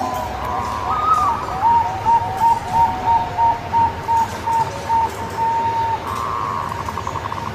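Zebra dove (perkutut) cooing: a run of short, even notes, about two to three a second, ending in one longer note. Near the end a fast, rattling trill follows.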